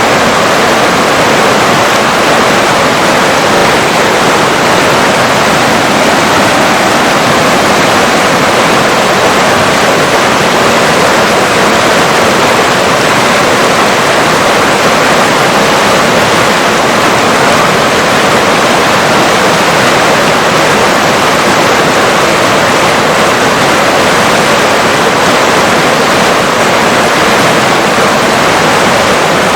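River water flowing: a steady, even hiss of running water that does not change.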